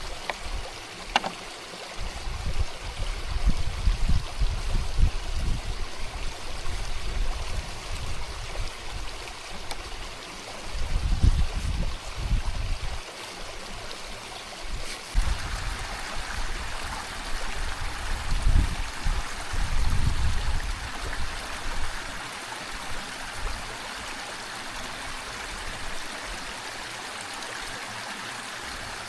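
Steady rushing of a flowing stream, with heavy low buffeting on the microphone for much of the time. The buffeting dies away about three quarters of the way through.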